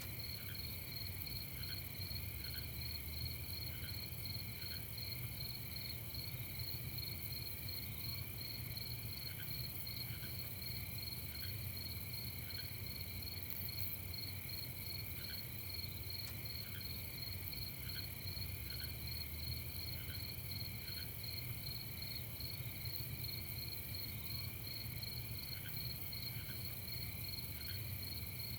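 Night chorus of crickets chirping steadily, several layered at different pitches, with a lower single chirp repeating every second or two over a faint low rumble.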